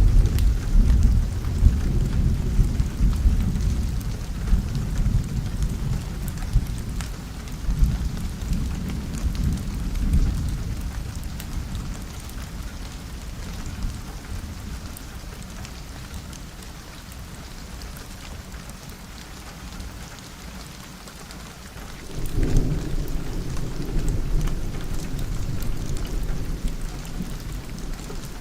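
Steady rain on a window with rolling thunder: a deep rumble dies away over the first dozen seconds, the rain carries on alone for a while, then a fresh peal of thunder breaks in about three quarters of the way through and rolls on.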